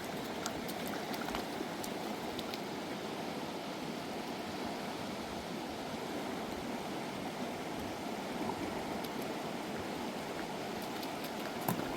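Fast mountain river rushing steadily, an even roar of flowing water, with a few faint small clicks.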